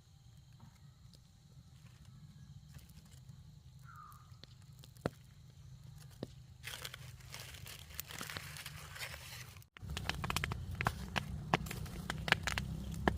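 Dense dry crackling and crunching that builds from about seven seconds in, over a low steady rumble; after a brief cut near ten seconds it is louder.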